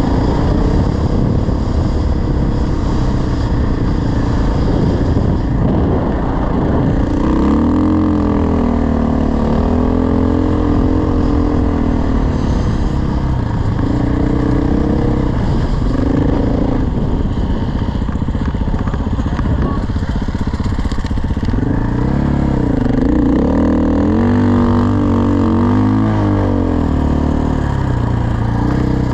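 Dirt bike engine running under load, its pitch repeatedly rising and falling as the throttle is worked and the bike shifts through the gears.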